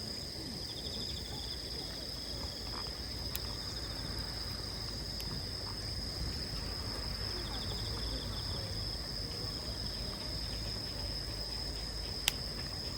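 Insects singing: a steady high-pitched trill, with two short pulsed trills at a lower pitch about a second in and about seven seconds in. Two faint clicks, one a few seconds in and one near the end, over a low background rumble.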